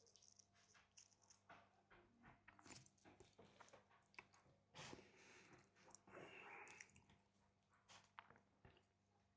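Faint close-up mouth sounds of someone chewing a chocolate brownie: scattered soft wet clicks, with two brief louder chewing moments about five and six seconds in.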